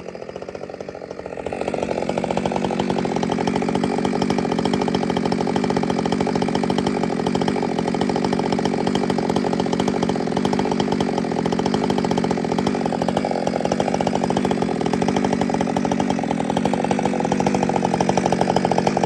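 Chainsaw engine revving up over the first second and a half, then held steady at high revs, as in a cut through a trunk.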